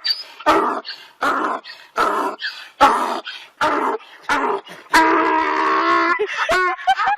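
A dog vocalizing in a rapid string of short calls, with one longer drawn-out call about five seconds in.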